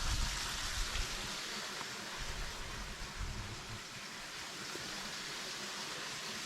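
A steady rushing hiss with no distinct events, with some low rumbling in the first second and a half.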